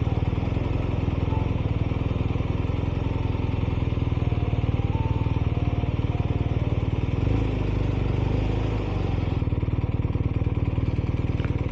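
BMW R 1250 RS's 1254 cc boxer twin running steadily under way, heard over wind noise, its note dropping lower for a couple of seconds about seven seconds in.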